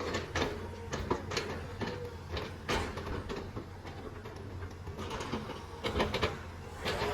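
Heavy machinery running with a steady low drone, overlaid by irregular sharp clanks and knocks.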